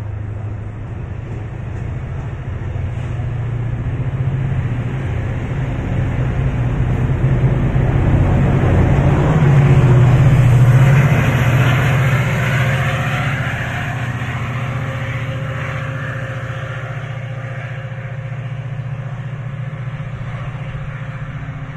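MARC bilevel commuter train pulling out of the station, with a low engine hum and the rush of the passing cars. The sound grows to its loudest about ten seconds in as the locomotive passes close, then fades as the train moves away.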